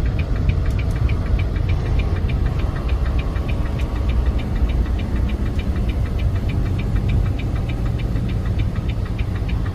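Semi-truck engine running, heard from inside the cab: a steady low rumble with a fast, even ticking of about five ticks a second.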